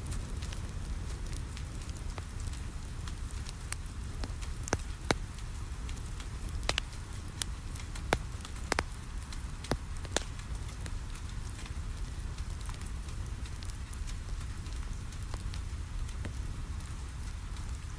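Wood fire crackling in a fireplace, with a run of sharp pops in the middle, over the steady hiss of rain on a window and a low rumble.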